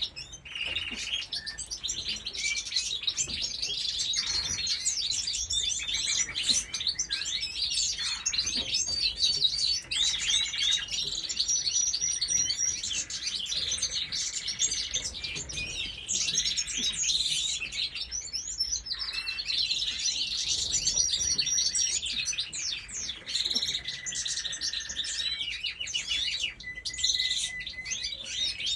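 Many small birds chirping and twittering at once, a dense, unbroken chorus of short overlapping high calls and trills.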